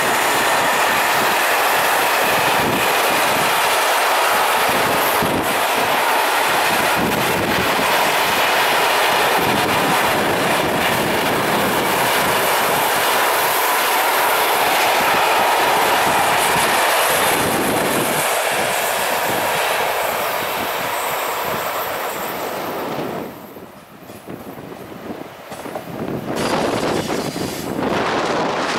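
Container freight wagons rolling past on a curve: a steady loud rush of wheels on rail with a thin, steady wheel squeal. The noise drops away sharply a little past two-thirds through, then a passenger train's coaches are heard passing close by near the end.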